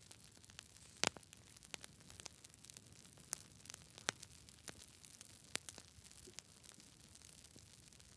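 Wood fire crackling: irregular sharp pops and snaps over a faint steady hiss, the loudest pop about a second in.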